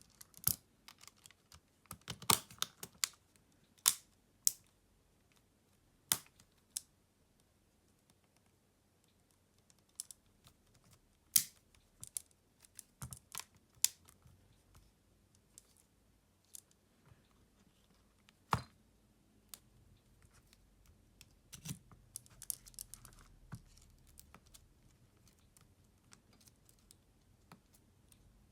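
Irregular sharp clicks and taps of small repair tools on a Xiaomi Redmi Note 11 smartphone's parts, with a short patch of faint crackling about three quarters of the way through.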